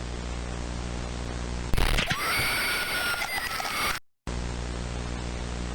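A steady electrical hum, broken about two seconds in by a burst of loud static with whining tones that lasts about two seconds and cuts off into a moment of dead silence before the hum returns.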